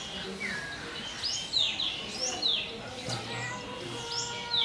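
Small birds chirping: short, sharp calls that sweep down in pitch, repeated several times in quick succession.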